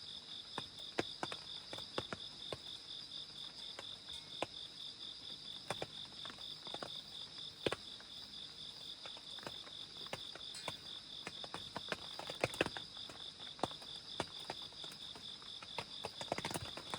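Crickets chirping steadily in a fast, even pulse, with scattered drops of rain ticking at irregular moments.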